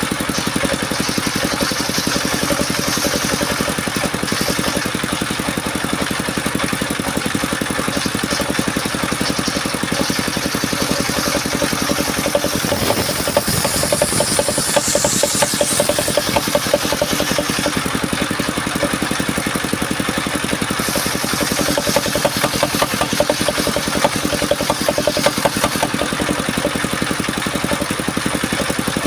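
Engine of a mobile circular-saw sawmill running steadily, with a louder, harsher stretch around the middle and another about three-quarters through.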